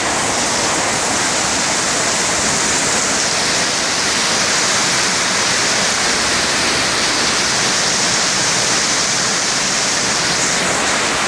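Heavy rain pouring in a strong rainstorm: a loud, steady, unbroken rush.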